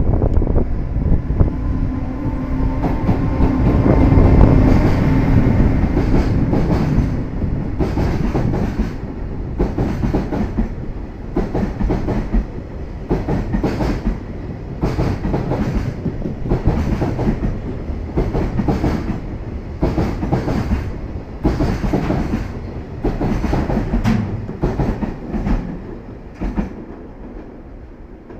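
Freight train passing at speed. A steady locomotive hum comes first, then a long run of wagon wheels clacking over rail joints, fading as the train moves away.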